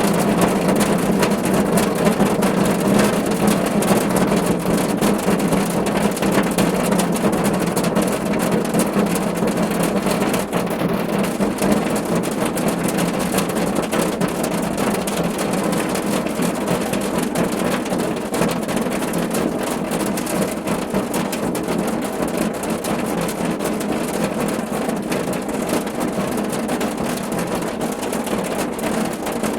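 Steady rain drumming on a car roof, a dense patter of countless drops, growing slightly softer toward the end.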